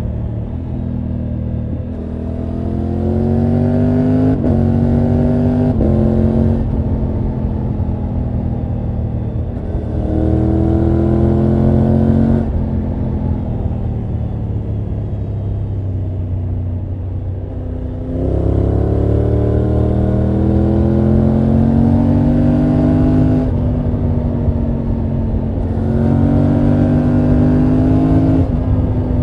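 2024 Triumph Tiger 900 GT Pro's three-cylinder engine and exhaust under way, repeatedly accelerating with the pitch rising and then dropping at each quick upshift, and easing off in between with the pitch falling.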